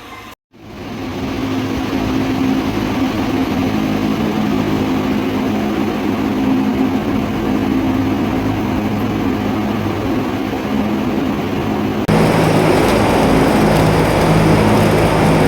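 Steady machinery running, a loud even mechanical noise with a low hum. About 12 seconds in it changes abruptly to a louder machine sound with a lower hum.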